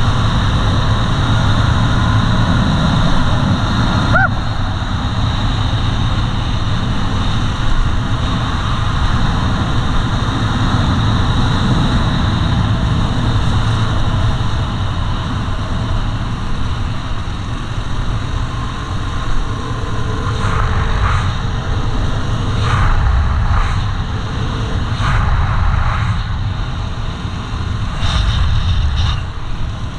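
Yamaha WR250R dual-sport motorcycle's single-cylinder four-stroke engine running steadily, with a few short brighter bursts in the last ten seconds.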